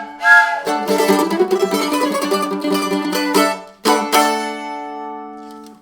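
Mandolin closing out a song: rapid tremolo strumming, then a final strummed chord about four seconds in that rings and fades out. A short breathy blast sounds at the very start.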